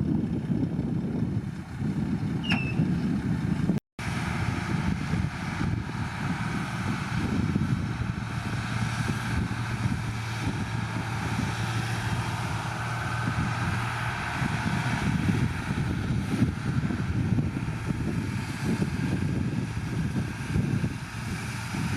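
Heavy earthmoving machinery's diesel engine running steadily, with a short high squeal about two and a half seconds in. The sound cuts out for an instant just before four seconds in.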